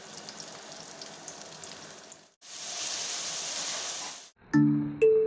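Food frying in hot oil in an aluminium pot: a soft sizzle with small crackles as chopped onions fry, then after a cut a louder, hissier sizzle as chicken pieces fry. Near the end, music of short struck notes starts.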